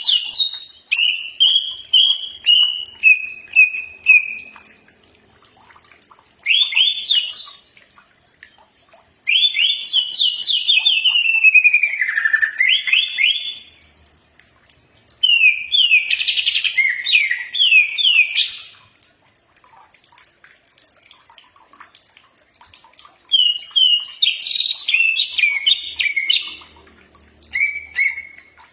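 Cucak ijo (green leafbird) singing in loud phrases of rapid chirps, trills and sweeping whistles. About six bursts come one after another with short pauses between them. The first burst is a falling series of chirps, and the longest, a few seconds later, ends in a downward slur.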